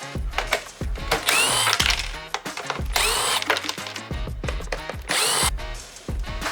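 Three short bursts of a small power tool, each spinning up and winding down, over background music with a steady beat.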